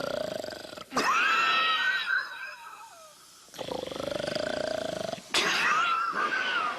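Cartoon snoring in two slow cycles: a long droning in-breath followed by a louder, wavering whistle on the out-breath that falls in pitch at its end.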